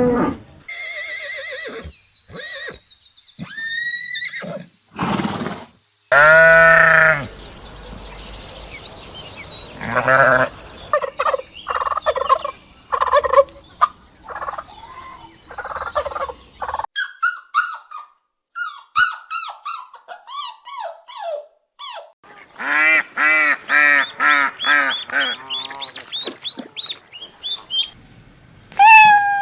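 A string of animal calls, mostly domestic fowl, cutting from one call to the next. About midway comes a run of quick high chirps, and near the end a fast series of repeated calls.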